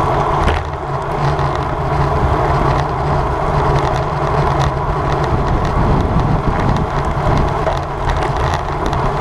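Wind rushing steadily over the microphone of a road bike ridden at race speed.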